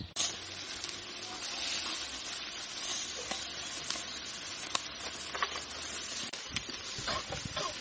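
Food sizzling in hot fat: a steady hiss with scattered crackles and pops.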